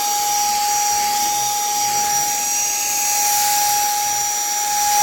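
REIKIYA HV-C11 handheld cordless mini vacuum cleaner running steadily on its lowest suction setting (level 1), a continuous high-pitched motor whine over airflow hiss.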